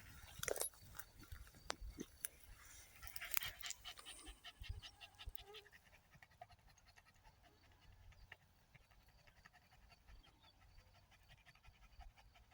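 A jagdterrier panting faintly and rapidly, with some rustling and small clicks in the first few seconds.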